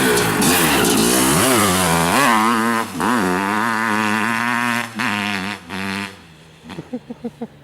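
Honda CR500 two-stroke single-cylinder engine in a TRX450R quad, running loud with the throttle blipped repeatedly so the pitch rises and falls. About six seconds in it drops away sharply, followed by a few short, quieter blips.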